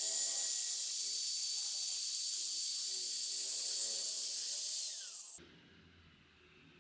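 Angle grinder running free with its disc off the work: a steady high hiss with a thin whine. About five seconds in the whine falls in pitch, and the sound then cuts off abruptly.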